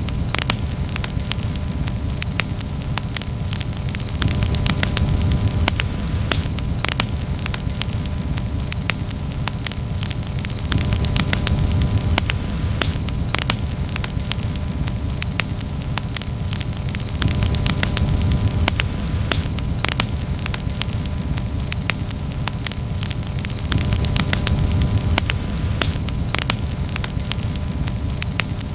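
Campfire crackling, with frequent irregular snaps and pops of burning wood over a steady low rumble of the flames.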